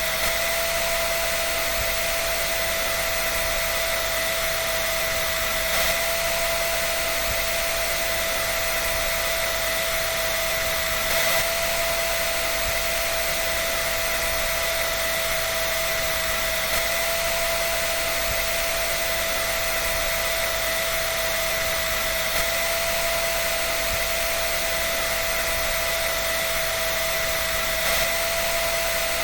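A dryer running steadily: an even rushing hiss of moving air with a constant whine, and a faint bump about every five or six seconds.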